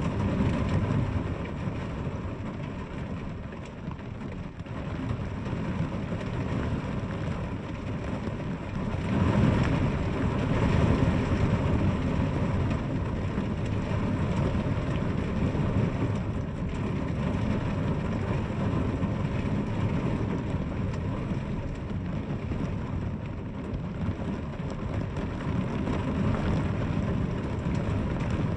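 Steady rain falling on a house window: a continuous dense hiss with a deep low undertone. It swells louder for a few seconds about nine seconds in.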